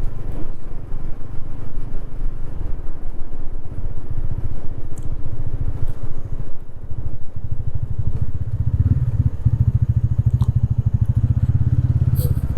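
TVS Ronin's single-cylinder engine running while riding, a rapid low exhaust pulse that gets louder about two-thirds of the way in, as if opened up.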